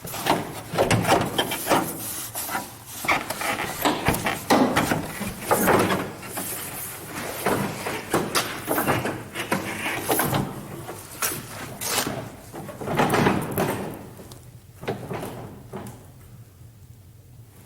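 A pickup truck's hood being unlatched and raised: a long run of irregular metal clunks, knocks and rattles that thins out over the last few seconds.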